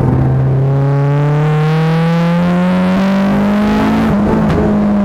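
Honda Accord Type R's 2.2-litre VTEC four-cylinder engine accelerating on track, heard from inside the cabin, its note climbing slowly and steadily. There is a brief rough break in the sound about four seconds in.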